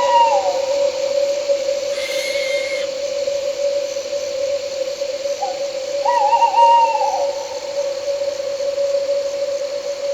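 An owl hooting: a short call at the start and a longer, wavering call about six seconds in, over a steady drone of crickets and night insects. A brief higher call sounds at about two seconds.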